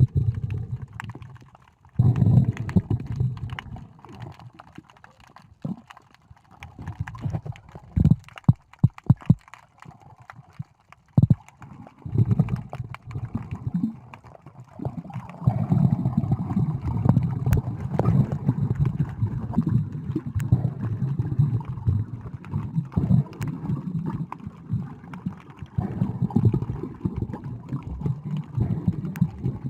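Muffled water sloshing and rumbling around a camera held underwater in the sea, coming in irregular swells, with a few sharp knocks about eight to nine seconds in.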